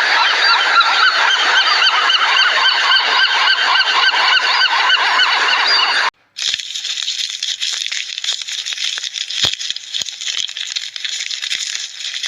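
A flock of geese honking, many short calls overlapping. About six seconds in it cuts off and a different, higher-pitched and busier clip of many animals takes over.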